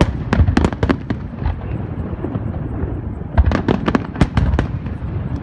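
Fireworks show: aerial shells bursting in quick clusters of sharp bangs over a continuous rumble, with a burst of reports in the first second and a denser volley about three and a half seconds in.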